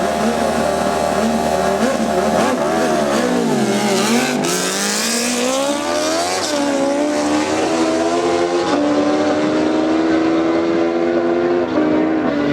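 Drag-racing engine at high revs: the pitch dips and climbs back about three to four seconds in, then holds steady and high.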